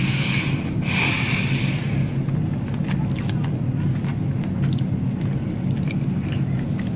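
A person chewing a mouthful of fried Korean cheese dog with the mouth closed, making small wet mouth clicks, over a steady low hum. There are two breathy rushes of air within the first two seconds.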